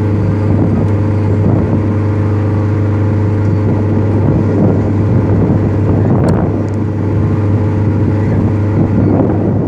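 A boat engine running steadily: a loud, unchanging low hum with several steady tones above it.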